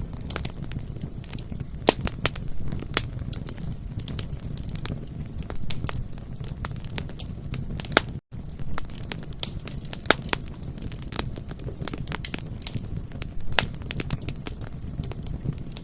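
Bonfire crackling: dense, irregular sharp snaps and pops of burning wood over a steady low rumble of the flames, with a split-second gap in the sound about eight seconds in.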